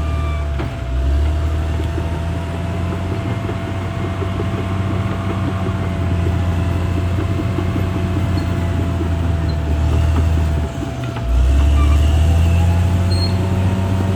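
Caterpillar D6R XL bulldozer's diesel engine working, a steady low drone that sags briefly about a second in and again near eleven seconds, then picks back up louder.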